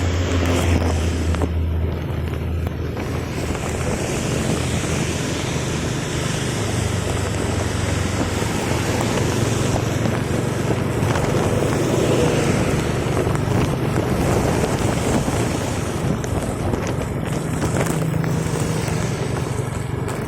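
A motor vehicle's engine running, its low note stepping up and down in pitch, under a heavy rush of wind noise on the microphone.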